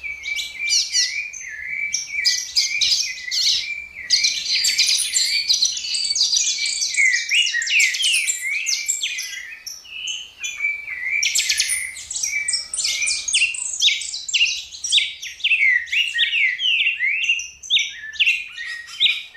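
Birds chirping and twittering: a dense, continuous run of quick, high-pitched notes and trills, with brief lulls now and then.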